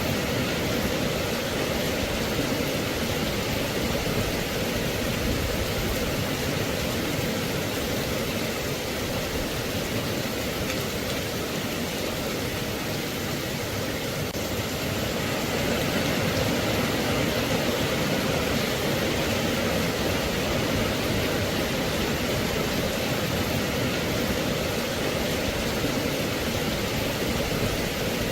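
Steady rain, an even hiss of falling water with no single drops, thunder or changes standing out.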